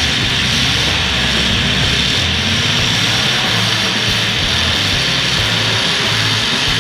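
Demolition derby cars' engines running, a loud, steady drone.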